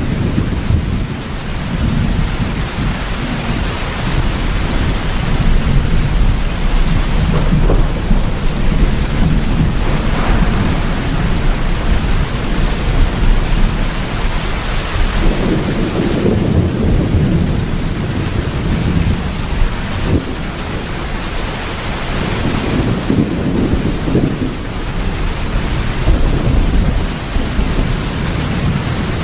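Steady heavy rain with low rolling thunder rumbling underneath, the rumble swelling about halfway through and again near the end.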